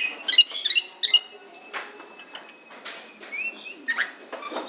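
Oriental magpie-robin singing an odd-sounding song: a quick run of high chirps and short whistled glides, loudest in the first second and a half, with scattered sharp clicks between the notes.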